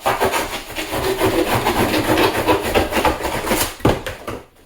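Handsaw sawing through leftover pizza in rapid back-and-forth strokes, stopping after a final stroke near the end.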